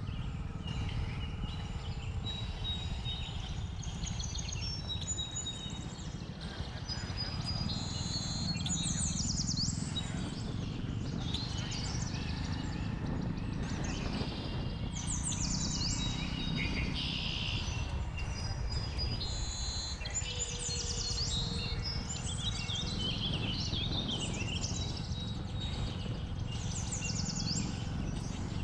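Many birds chirping and calling in quick rising and falling notes, thickest from about eight seconds in, over the steady low rumble of wind and a moving motorcycle.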